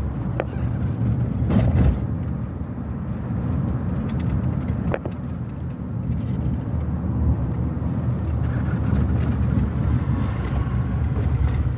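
Car driving along a road: a steady low rumble of engine and road noise, with a few brief knocks or rattles.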